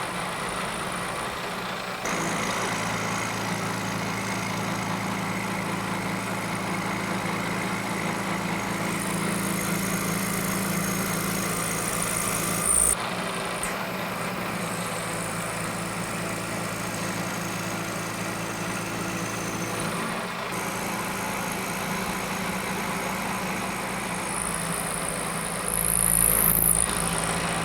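Milling machine running steadily while cutting keyways into a steel shaft: a continuous motor and spindle hum under a hiss of cutting. It changes abruptly several times, as if in separate takes.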